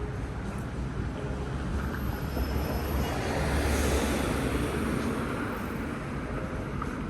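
Busy city street noise with a low rumble of traffic, swelling as a vehicle passes about four seconds in and then fading.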